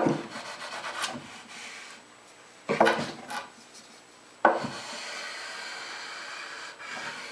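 A chunk of 2x4 rubbed hard along iron-on birch edge banding on a plywood edge, pressing the hot-melt glue down to drive out air pockets. Three strokes, each starting with a knock of wood on wood, the last a longer even scrape.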